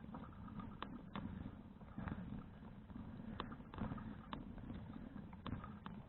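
Rumble and wind noise from a bicycle-mounted action camera while riding, with scattered sharp clicks and light rattles from the bike.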